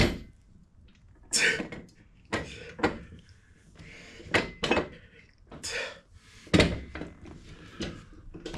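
About ten sharp knocks and thuds at irregular intervals, like hard objects being set down or bumped in a small room.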